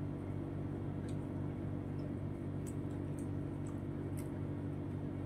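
A man chewing a mouthful of vegetable biryani, heard as a few faint soft mouth clicks over a steady low hum.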